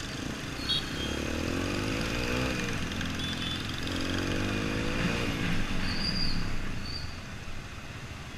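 Yamaha XTZ 125's single-cylinder four-stroke engine pulling up through the revs twice, about three seconds apart, each climb cut off by a sudden drop in pitch as it shifts gear.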